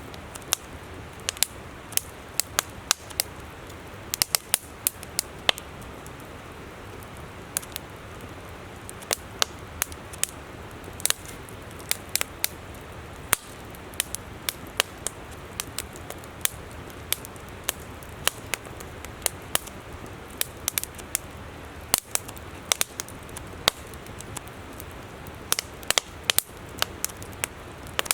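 Wood campfire crackling, with many irregular sharp pops, over the steady rush of a flowing river.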